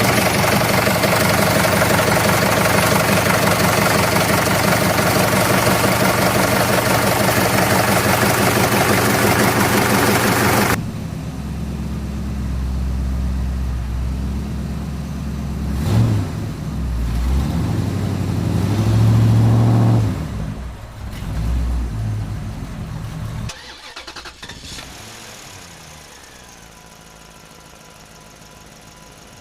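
Engine running loud with a fast even rattle. About eleven seconds in it drops to a lower rumble that rises and falls, then falls away to a faint steady hum near the end.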